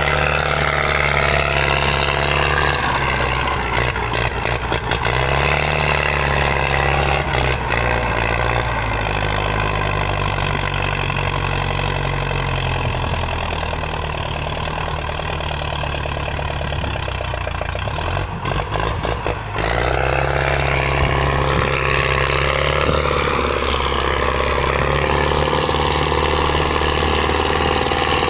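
Tractor diesel engine running hard, its pitch stepping up and down several times as the revs change, with a short stretch of rattling about two-thirds of the way through.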